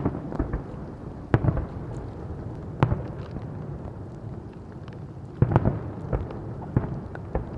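Fireworks bursting: a string of sharp bangs a second or more apart, a quick cluster of them about two thirds of the way in, with crackling in between.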